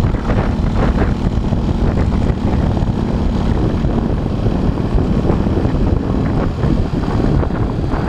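Motorcycle engine running while riding, with wind and road noise on the action camera's microphone. A steady engine note fades about three and a half seconds in, leaving the lower rumble.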